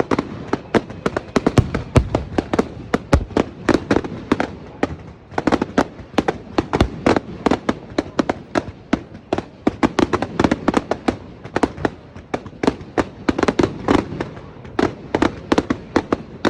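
Fireworks going off in a continuous rapid crackle of sharp bangs, several a second, with a few heavier low thuds among them.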